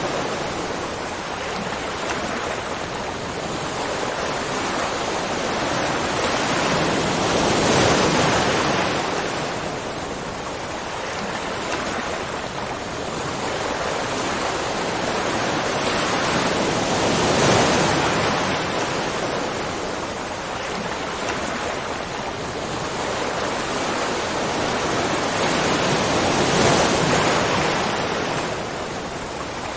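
Rushing water, a dense steady roar that swells louder and eases back about every nine seconds.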